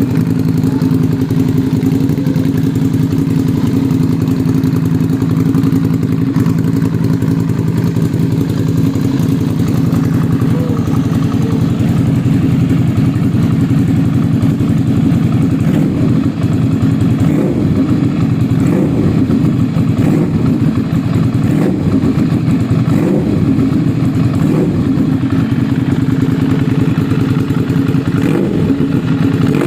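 Ducati Monster 796's air-cooled L-twin idling after a cold start through an SC-Project CR-T aftermarket exhaust, a steady, loud exhaust note. About halfway through, the note turns rougher and less even.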